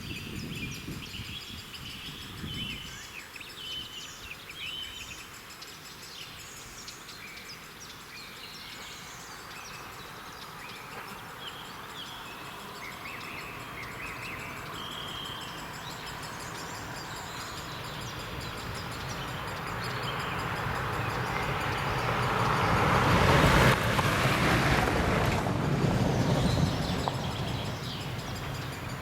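Birds singing, then a DPL1 diesel train with its 2M62 locomotive section approaching slowly on the rails. Its engine rumble and wheel noise build from about two-thirds of the way in and grow loudest near the end as it draws level.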